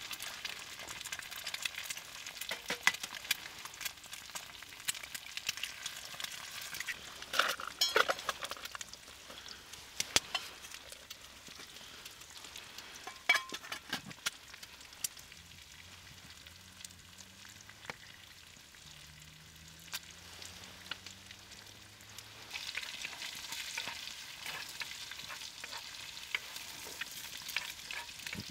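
Food frying in a cast-iron skillet over a wood-burning firebox: a steady sizzle with scattered sharp clicks and scrapes as it is stirred. The sizzle dies down for a while in the middle, then picks up again near the end.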